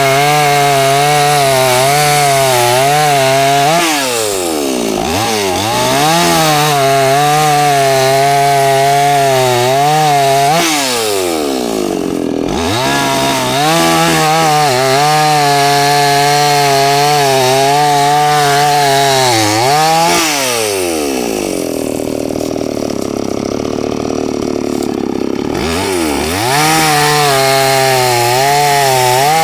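Two-stroke chainsaw running at high revs while cutting tree branches, its pitch wavering under load. It drops back three times, the longest to a lower idle about two-thirds of the way through, then revs up again near the end.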